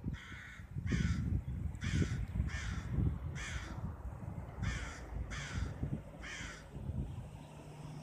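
A bird giving eight short, harsh calls in an irregular series, each call falling slightly in pitch.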